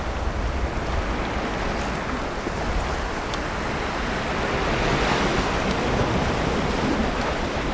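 Sea waves breaking and washing up on a sandy beach as a steady surf hiss, swelling louder about halfway through as a wave comes in, over a low rumble.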